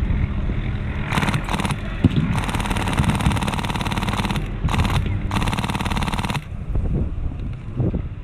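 Airsoft MK46 support gun with a Polarstar Fusion HPA engine firing full-auto in four bursts of rapid clicks. The longest burst lasts about two seconds, and the firing stops about six and a half seconds in.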